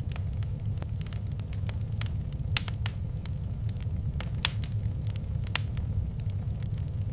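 Wood fire crackling and popping in a fireplace: irregular sharp pops over a steady low rumble of the burning fire, a few louder pops about two and a half, four and a half and five and a half seconds in.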